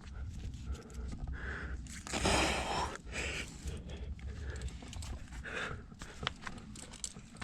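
A climber breathing hard in repeated short puffs while climbing. There is a louder rushing burst about two seconds in and a few sharp clicks near the end, over a steady low rumble like wind on the microphone.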